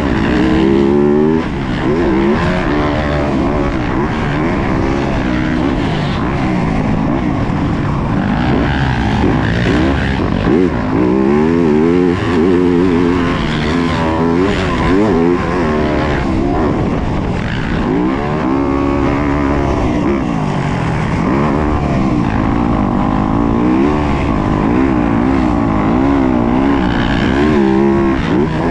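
Yamaha YZ250F motocross bike's 250 cc four-stroke single-cylinder engine ridden hard. Its pitch climbs and falls again and again as the throttle is opened and shut.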